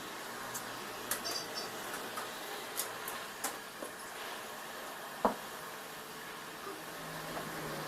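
Scattered light clicks and ticks over a steady hiss, with one sharper knock a little past five seconds in.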